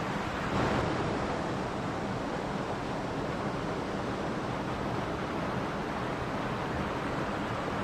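Mountain stream rushing and splashing steadily, with a brief slight swell in the flow about half a second to a second in.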